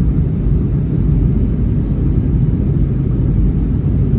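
Steady low rumble of an Airbus A321neo's cabin noise, engine and airflow sound heard from inside the passenger cabin during the approach and landing phase.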